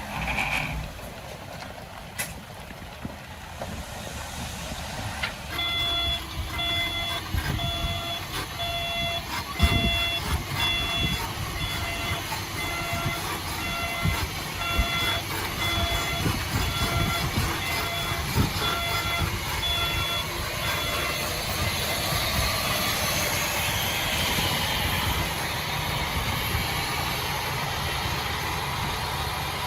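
Heavy diesel construction machine running, with its reversing alarm beeping at a steady pace from about six seconds in until about twenty seconds in. Low knocks and thuds sound under the engine while the alarm beeps.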